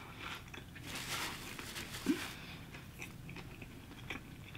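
A person biting and chewing fast food, with crunchy bites in the first two seconds and softer mouth clicks after.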